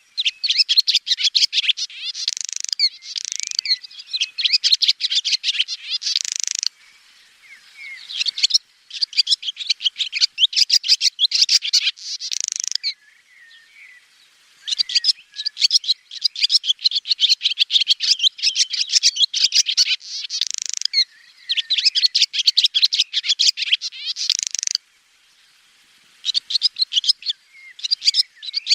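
Swallow twittering: long runs of rapid chirps and warbling trills lasting several seconds each, broken by a few short pauses.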